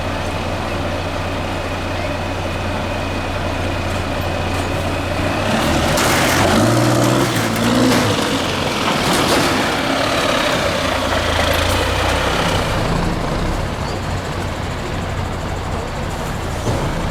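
Diesel engine of a 6x6 MAN off-road trial truck running, revving harder for several seconds about a third of the way in, with a couple of sharp clatters, then settling back to a steady drone.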